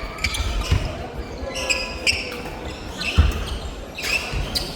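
Badminton rally: rackets striking the shuttlecock in sharp cracks every second or so, with shoes squeaking on the court floor and feet thudding.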